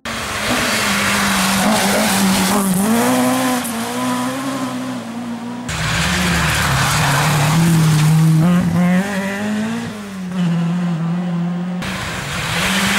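Competition rally cars driving hard on a stage, the engine note rising and falling through gear changes over tyre and road noise. The sound switches abruptly about six and twelve seconds in, as one car gives way to the next.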